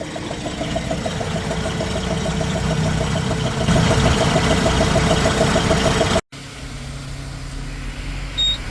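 Lorry engine running with a rapid, even pulsing noise on top, about seven pulses a second: the abnormal noise the driver cannot identify. After a break about six seconds in, a quieter engine hum follows, with a short high beep near the end.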